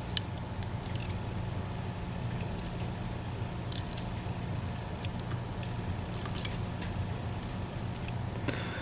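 Small metallic clicks and ticks of a lock pick and tension wrench working the sliders of an EVVA ICS dimple lock cylinder. The sharpest click comes just after the start, with scattered fainter ones later, over a steady low hum.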